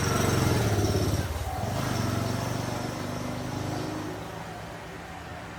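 A motor vehicle engine passing, a steady low drone that is loudest in the first second and then slowly fades away.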